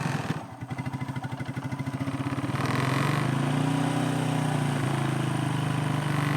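1992 Suzuki QuadRunner 300 ATV's single-cylinder four-stroke engine running with a rapid, even pulse, still cold and warming up just after its first start of the year. It sags briefly near the start, then picks up under a little throttle about two and a half seconds in and holds at a slightly higher speed.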